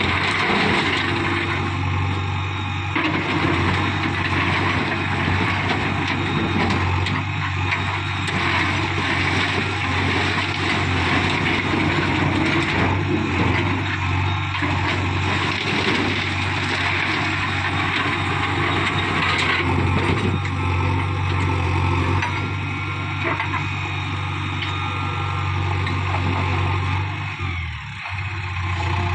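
Diesel engines of heavy earthmoving machinery running steadily at a stone-loading site, with a continuous low hum and mechanical clatter, easing off briefly near the end.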